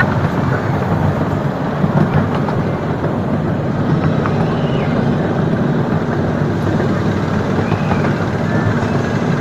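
Miniature railway train running, heard from on board: a steady rumble of the wheels on the track.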